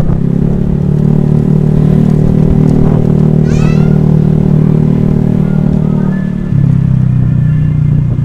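Honda Vario scooter's single-cylinder engine running steadily under way, dipping briefly and settling at a different pitch about six and a half seconds in. Around the middle a brief high sound steps down in pitch over the engine.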